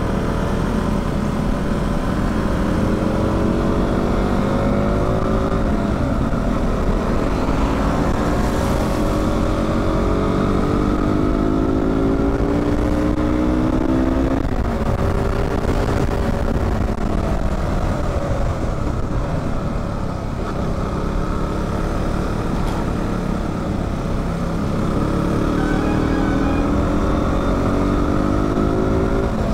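KTM RC 200 single-cylinder engine under way, its pitch climbing steadily for several seconds and then falling away, a few times over, as it pulls through the gears, over a steady low rush of wind and road noise.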